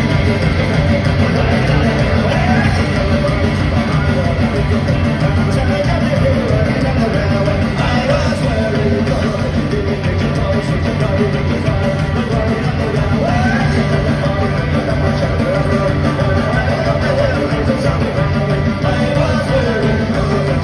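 A folk-punk band playing loud live rock music with electric guitars and drums, the song's instrumental opening before any verse is sung.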